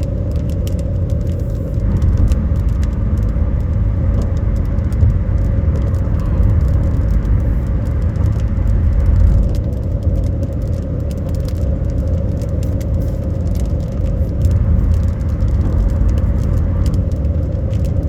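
Car cabin noise while driving: a steady low rumble from the road and engine with a steady hum over it, and scattered light ticks.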